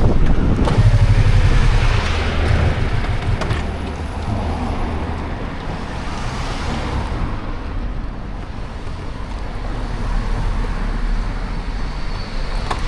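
Road traffic: motor vehicles passing close by, loudest in the first two seconds or so, then a steadier traffic rumble with a couple of swells as more vehicles go by.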